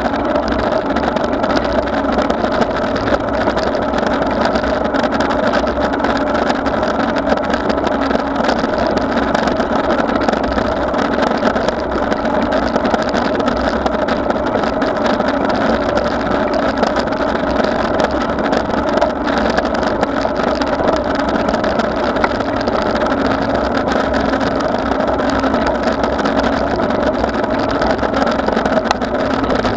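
Steady, loud riding noise of a bicycle ride: an unbroken rumbling drone of wind and road noise with a constant hum, with no pauses or sudden sounds.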